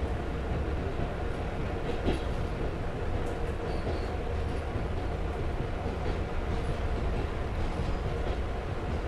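Passenger train running, heard from aboard: a steady low rumble of wheels on rails with a few faint clicks.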